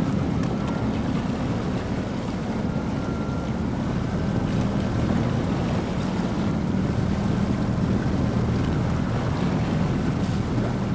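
A boat under way on the water: a steady low drone with water and wind noise on the microphone.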